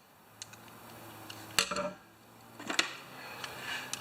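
A few light clicks and knocks of a screwdriver and a plastic cord plug being handled as the plug is taken apart, with one sharper clack about a second and a half in. A faint steady hum lies underneath.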